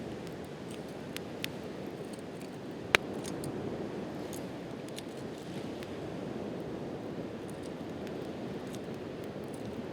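Wood campfire crackling, with scattered small pops and one sharp, loud pop about three seconds in, over a steady wash of sea surf.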